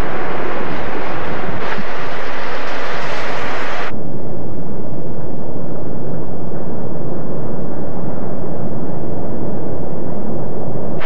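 Loud wind from a tornado storm blowing across the microphone, a steady hiss. About four seconds in, it changes abruptly to a duller low rush with the high hiss gone.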